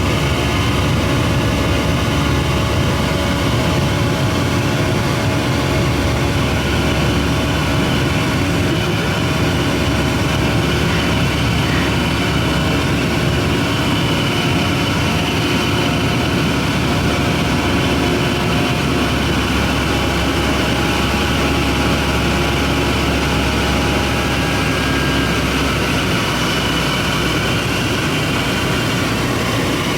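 Steady drone of an airliner's engines heard inside the passenger cabin, a constant rumble with steady tones over it.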